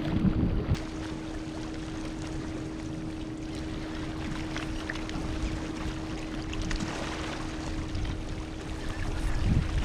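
Gentle ocean waves washing ashore, with a louder surge at the start and another near the end, over a steady low hum.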